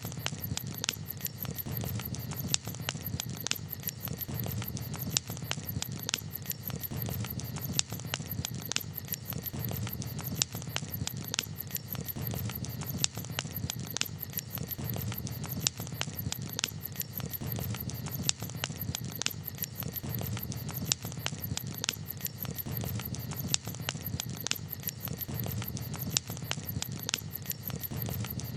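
Campfire crackling steadily, with a sharp louder pop every two to three seconds over a low, even rumble.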